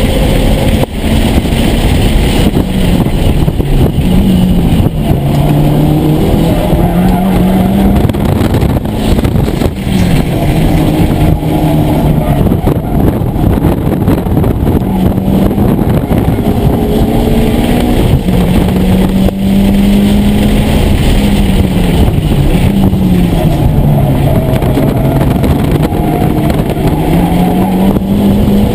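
Mitsubishi Lancer Evolution IX's turbocharged four-cylinder engine heard from inside the cabin under hard track driving, its revs falling and climbing again several times as the driver brakes, shifts and accelerates.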